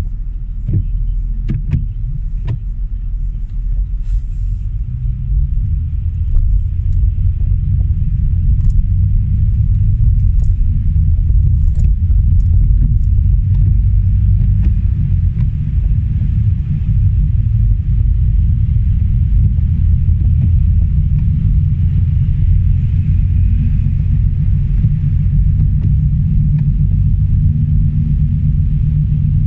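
Car driving on a wet, slushy winter road: a steady low rumble of the engine and tyres, growing louder about six seconds in as the car picks up speed. A few sharp clicks come in the first seconds.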